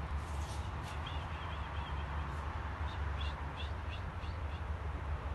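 Small birds chirping briefly, a few short high chirps about a second in and a quicker run of them around three to four seconds in, over a steady low rumble.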